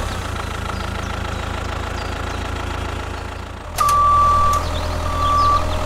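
A vehicle engine running steadily, with two long high beeps from about four seconds in.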